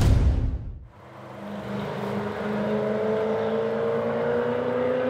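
Subaru Forester XT's turbocharged 2.0-litre flat-four running at speed on track, its pitch climbing steadily as the car accelerates. A loud sweeping burst of noise dies away in the first second.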